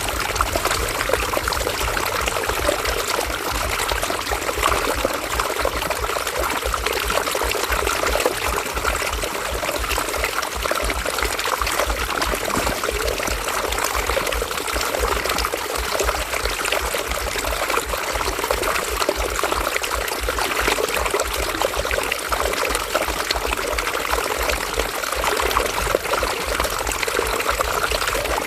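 River water flowing and burbling steadily over stones, a continuous splashing rush with a low rumble beneath.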